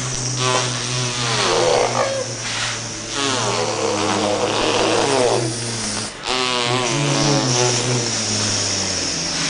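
A young child making an airplane noise with his mouth: a buzzing, engine-like drone under a voice that swoops up and down in pitch, with a short break for breath about six seconds in.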